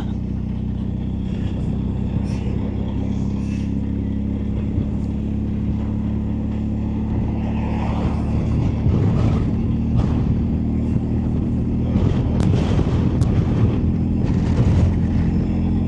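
BMW R1250GSA's boxer-twin engine running at a steady pace on the move, with a rushing noise that grows louder over it in the second half.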